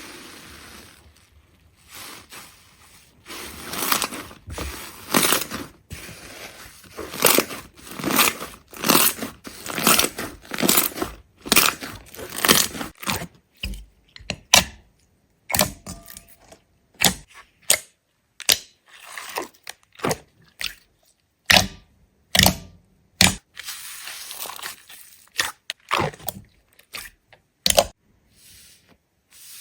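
Repeated crunching and crackling as something is crushed or cut, in irregular strokes about one or two a second.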